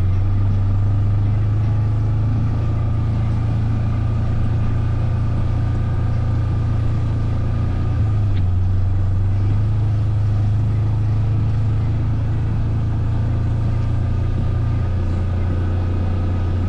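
A vehicle's engine running steadily at a constant speed while being ridden, a continuous low drone with little change.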